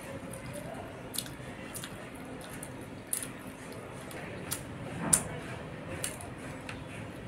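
Wet mouth sounds of eating puri with vegetable curry: chewing with short sharp lip smacks and clicks about once a second, the loudest about five seconds in.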